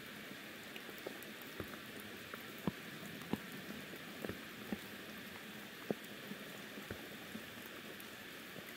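Soft monsoon rain falling steadily on forest foliage, a constant light hiss with irregular heavier drops landing close by, about one or two a second.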